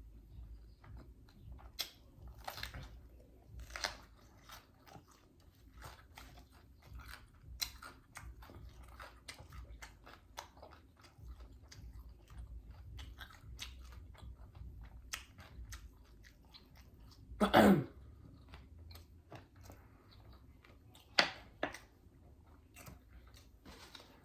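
A person chewing food with frequent wet mouth clicks and smacks. About seventeen seconds in there is one louder sound that falls in pitch, and a sharp click comes a few seconds later.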